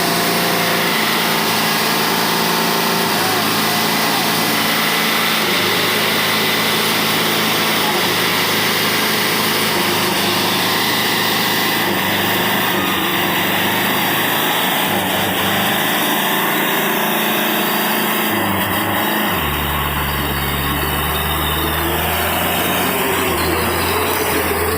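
A small engine running steadily under a constant loud rushing noise; a deeper engine hum joins in about three quarters of the way through.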